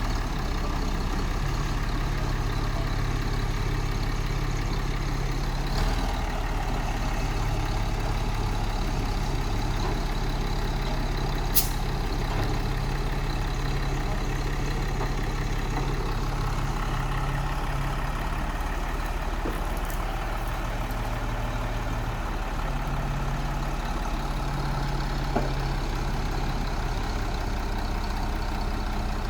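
A heavy vehicle engine running steadily, its low tone shifting slightly now and then, with one sharp click about twelve seconds in.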